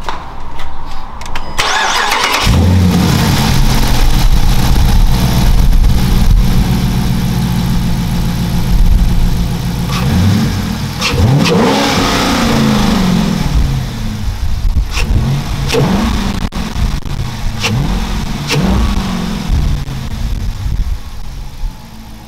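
Dodge Charger R/T's 5.7-litre Hemi V8 cranking and starting about two seconds in, then idling and revved several times, the revs rising and falling, before dropping back to a quieter idle near the end. It is the engine's first start after a new aftermarket intake and oil catch can were fitted.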